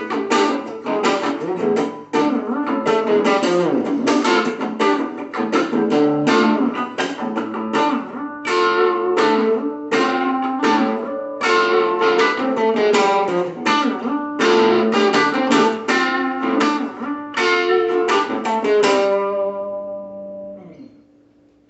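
Guitar strumming chords in a steady rhythm, ending on a last chord that rings out and fades away.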